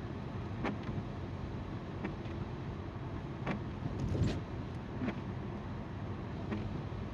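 A car driving: steady tyre rumble on the road and the hum of the engine. Short clicks come about every second and a half, the loudest about four seconds in.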